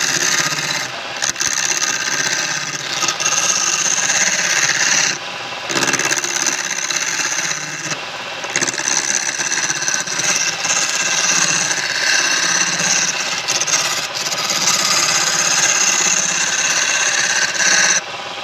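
Wood lathe turning a workpiece while a tool scrapes against the spinning wood, in long continuous passes with a few brief breaks.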